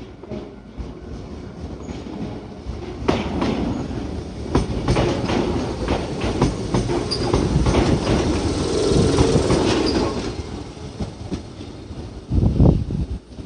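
Shizuoka Railway 1000 series electric train passing close by, its wheels clacking repeatedly over the rail joints and the level crossing. It grows louder toward the middle, then fades, with a short low thump near the end.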